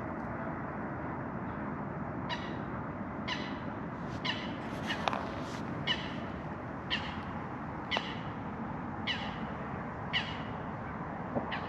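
A bird calling over and over, a short falling note about once a second, over a steady rushing background noise.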